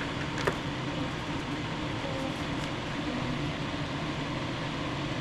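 Steady fan-like whooshing hum, with a single light click about half a second in.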